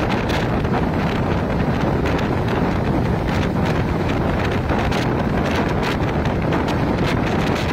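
A train running at speed, heard from its open doorway. Strong wind buffets the microphone over the steady noise of the train, with scattered faint clicks.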